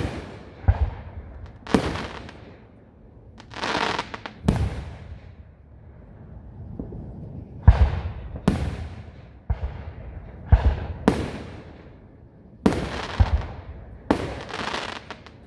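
Aerial fireworks going off one after another: more than a dozen sharp bangs at uneven intervals, many trailing off in a fading crackle.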